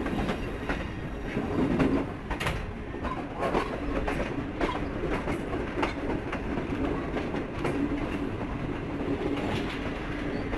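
Passenger train coach running on the track, heard from the coach doorway: a steady rumble of wheels on rail broken by irregular sharp clacks as the wheels cross rail joints.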